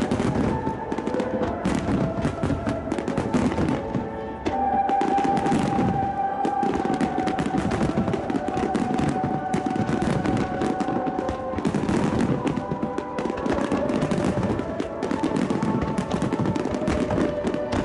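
A dense barrage of aerial fireworks shells bursting in rapid succession, crackling and banging without a break, over music with long held notes.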